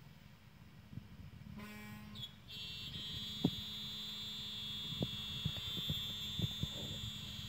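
CNC lock-milling machine starting up about a second and a half in, then running with a steady high whine over a low hum. Sharp clicks and ticks are scattered through it.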